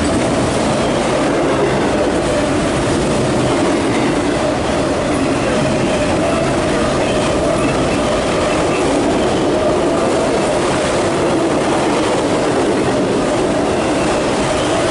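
CSX freight train of empty autorack cars rolling past at speed: a loud, steady rumble and rattle of steel wheels on rail, with a faint steady whine over it.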